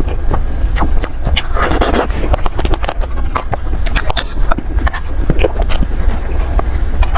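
Close-miked eating of soft desserts: wet chewing and many short sharp mouth clicks, over a steady low rumble.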